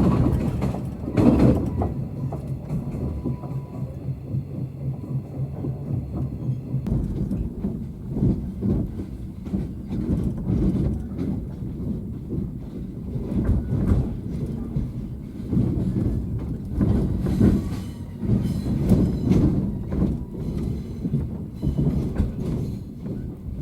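Train running on rails, wheels clattering over the track with a continuous rumble; the steady low hum heard at first stops abruptly about seven seconds in.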